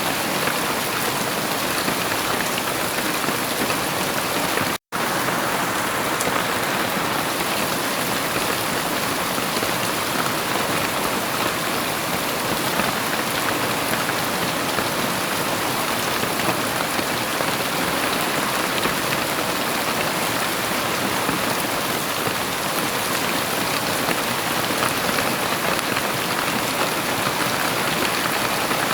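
Heavy rain falling in a steady, dense hiss, with no thunder. A split-second gap of silence breaks it about five seconds in.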